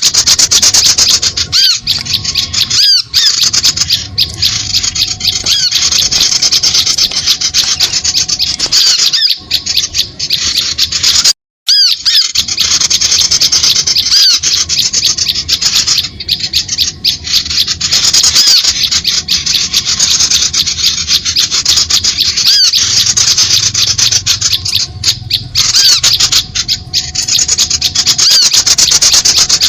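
Lure recording of many small birds calling at once: a dense, harsh, rapid chatter of scolding calls, loud and continuous, with one brief break about eleven seconds in.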